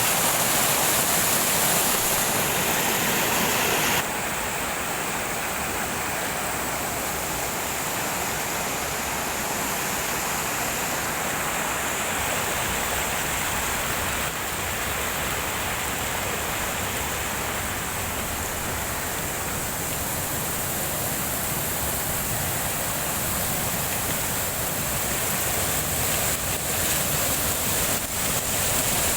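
Steady heavy rain, a dense even hiss of falling water; it drops a little in level about four seconds in.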